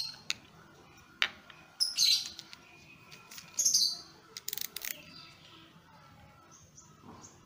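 Birds chirping in a few short bursts, with a faint background in between.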